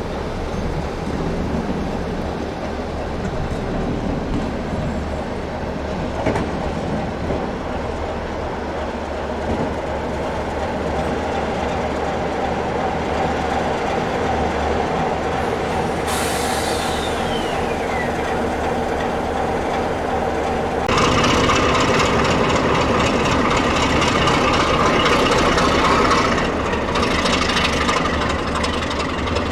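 Class 33 diesel locomotive running, with rail and wheel noise. A single falling squeal comes about halfway through, and a louder, harsher stretch lasts about five seconds from about two-thirds of the way in.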